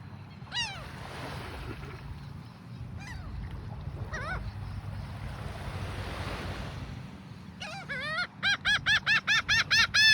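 Birds calling with harsh, arched calls: a few single calls, then a rapid run of about three calls a second near the end. A steady rushing noise runs beneath the middle.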